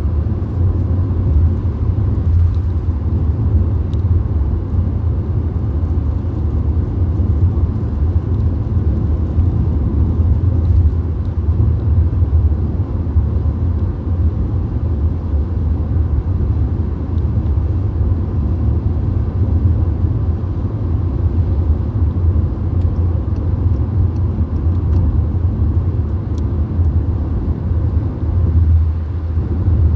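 Inside a VW Golf driving at motorway speed: steady road and engine rumble with tyre noise, deep and even throughout.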